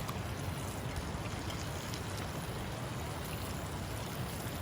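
River water flowing steadily, an even rushing wash, with a few faint ticks over it.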